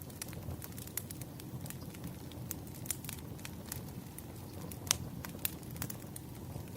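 Firewood burning: a steady low rumble of flames with frequent small crackles, and a sharper pop about five seconds in.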